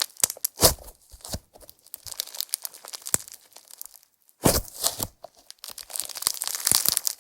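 Slime being squeezed and stretched by hand, making crackling, popping clicks. There is a brief pause about four seconds in, then a dense run of crackling near the end.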